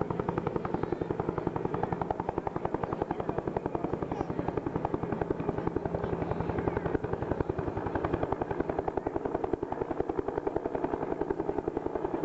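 Bell HH-1N Huey helicopter in flight nearby, its two-bladed main rotor beating in a rapid, even pulse over the steady sound of its turbines.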